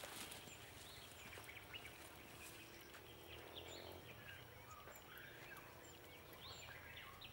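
Faint outdoor ambience with birds chirping: scattered short calls, and a short high note repeated about once a second.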